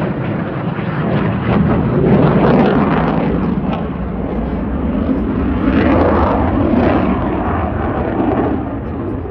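Military fighter jet engines passing overhead: a loud, rumbling jet noise that swells twice and eases off near the end.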